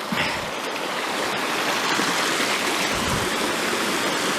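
Mountain headwater stream rushing steadily over rocks, with a brief low bump about three seconds in.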